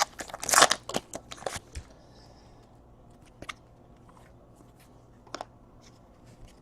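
Football trading cards being handled and slid past one another, a quick run of clicks and rustles in the first two seconds, then a few single ticks as cards are set down.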